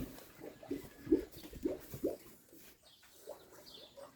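A series of short animal calls, about two or three a second, fading after about two seconds.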